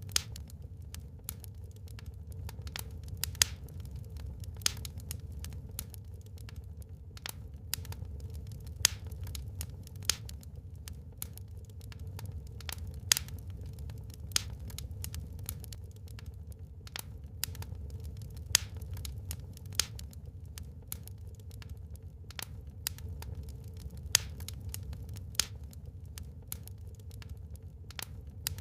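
Burning logs in a fireplace crackling: irregular sharp pops and snaps, several a second, with an occasional louder pop, over a steady low rumble of the fire.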